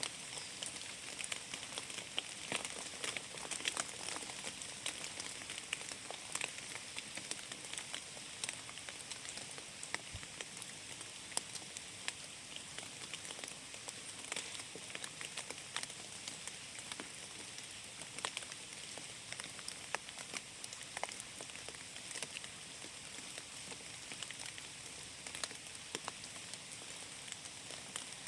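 Steady rain falling through forest, with many irregular drops pattering on leaves and the ground.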